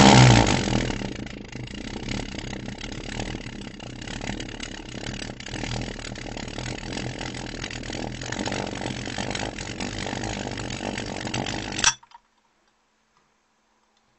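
Pulse jet engine running with a continuous buzz, loudest as it fires up at the start, then steady until it cuts out suddenly about 12 seconds in.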